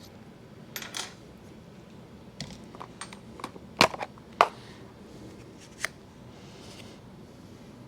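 Sharp clinks and knocks of metal tools being handled in a machine shop, a handful of separate hits with the two loudest a little under halfway through, and a few faint short hisses.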